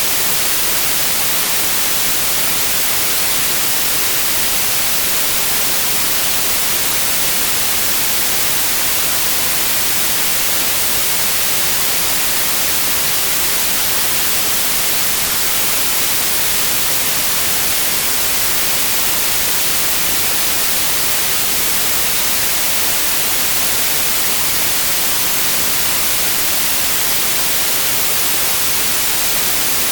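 Synthetic white noise: a steady, even hiss that is strongest in the high frequencies and never changes.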